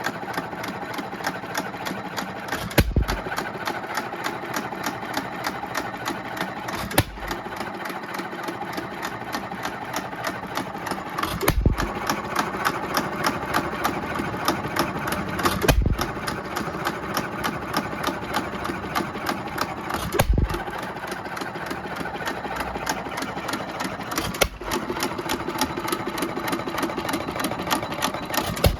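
1920 Economy 2 1/2 HP hit-and-miss engine with a Webster magneto running on test, firing once about every four seconds and coasting between, with a steady rapid clatter from the engine in between the firing strokes.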